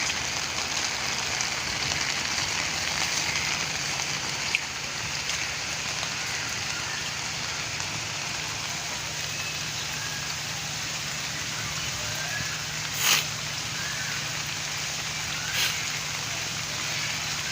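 Steady rainfall hissing evenly, with two brief louder knocks near the end.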